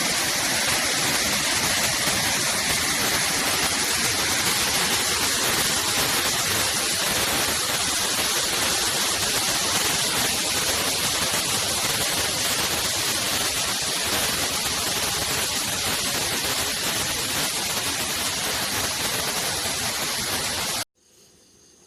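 Waterfall roaring, a steady, loud rush of water that cuts off abruptly near the end, leaving faint insect chirping.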